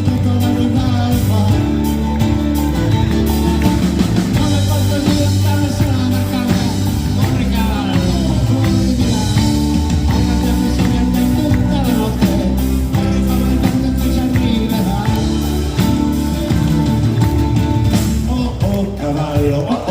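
Live band playing a rock number, with guitar over bass.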